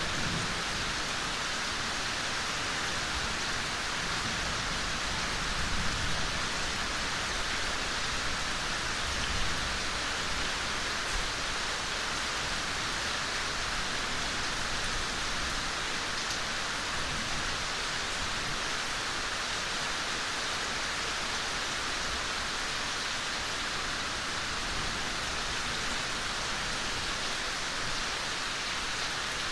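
Steady gentle rain falling, an even hiss with no single drops standing out, with a little low rumble in the first several seconds.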